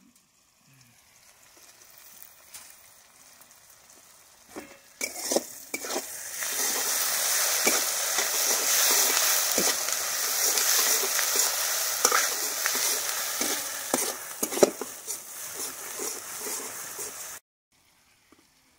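Onions and green chillies sizzling in hot oil in a kadai, with a metal spatula scraping and knocking against the pan as they are stirred. After a quiet start the sizzle comes in suddenly about five seconds in, and it cuts off abruptly near the end.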